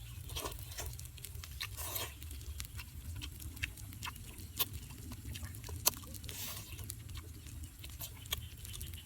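Close-up eating sounds: wet chewing and irregular lip-smacking clicks, over a low steady hum.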